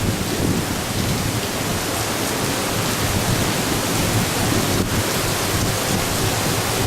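Typhoon storm noise: torrential rain and strong wind making a loud, steady rush.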